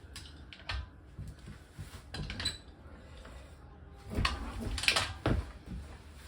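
Scattered knocks and clanks of objects being handled, a few single ones early on and a quick cluster of them about four to five seconds in.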